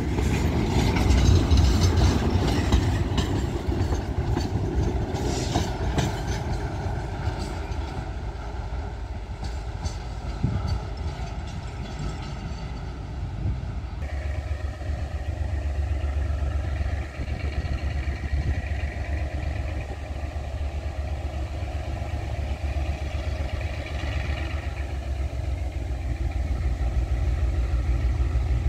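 Railway tank cars rolling past close by, wheels clicking over the rail joints. After a cut about halfway, a steady low engine rumble takes over.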